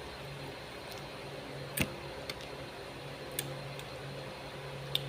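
Eating noodles: a few short, sharp clicks and smacks, spaced irregularly, the loudest about two seconds in, over a faint steady low hum.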